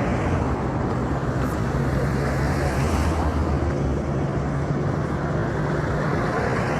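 A motor vehicle's engine running steadily, with a low hum under constant road noise.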